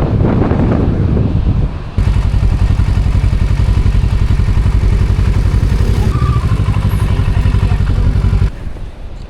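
Triumph Tiger motorcycle engine running, rougher and louder for the first two seconds, then idling with a steady even pulse until it cuts off abruptly near the end.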